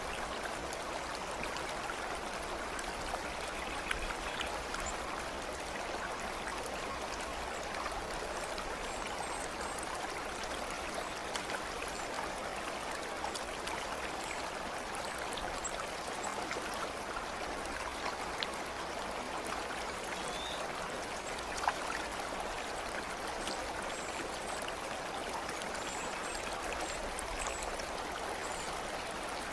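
A stream of water flowing steadily, an even rushing babble, with a few faint high chirps scattered through it.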